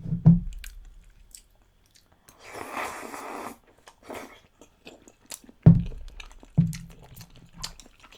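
Close-miked mouth sounds of eating Chinese glass noodles and chicken feet in spicy broth: wet chewing clicks and smacks, a slurp of about a second near the middle, and a few low thumps.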